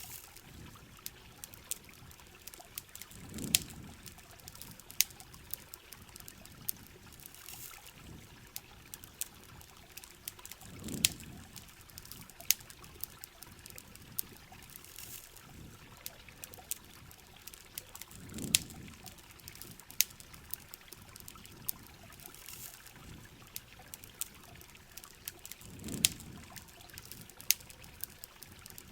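Ambience of rain trickling and pouring, with a campfire crackling in frequent sharp pops. A low swell recurs four times, about every seven and a half seconds.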